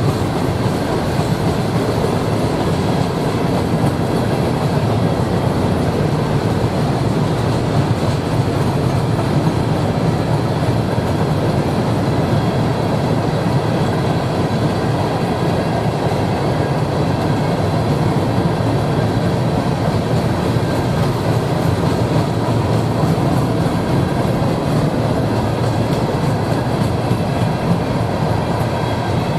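A train rolling steadily past, its cars' wheels rumbling and clattering over the rail joints.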